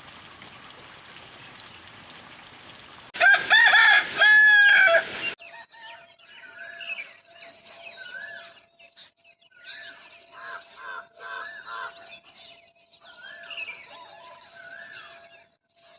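A rooster crows once, loud and drawn out, for about two seconds starting about three seconds in. Small birds chirp in short repeated phrases after it.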